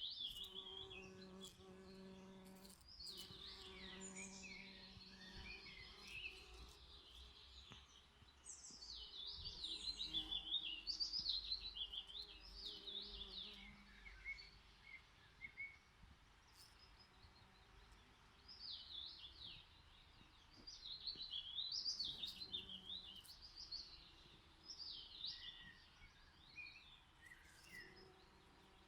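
Songbirds singing rapid twittering phrases in repeated bursts every few seconds, with a bee buzzing close by in short spells near the start and again a few seconds later.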